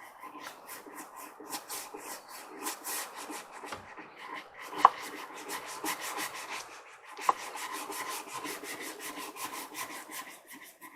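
A brush scrubbing wooden steps in quick, rhythmic strokes, working mildew off the wood. Two sharper knocks stand out, about five and seven seconds in.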